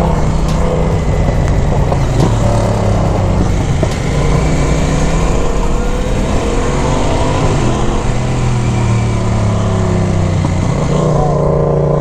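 Motorcycle engine running, its pitch rising and falling with the throttle.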